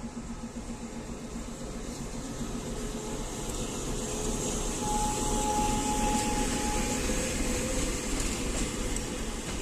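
ChME3 six-cylinder diesel shunting locomotive running with a passenger car, engine and wheels on the rails. It grows louder up to about halfway through, then eases off a little.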